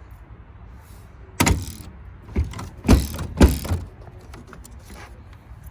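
A series of sharp clunks and clicks from a Mercedes-Benz 300E's body hardware as its latches and panels are worked: four louder knocks in about two seconds, with lighter clicks between them.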